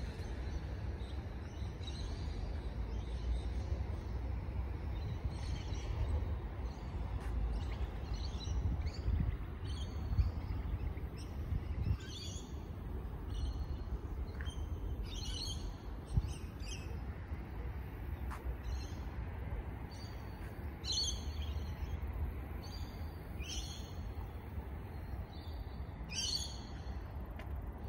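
Birds chirping, short high calls coming every second or so, over a steady low rumble.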